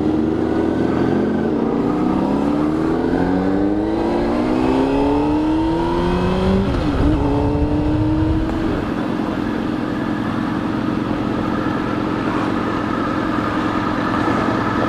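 Honda CBR600RR inline-four sport-bike engine pulling away with a passenger aboard. It revs up in a series of rising sweeps, dropping back after each one as it shifts up through the gears, then settles to a steady cruise from about halfway through.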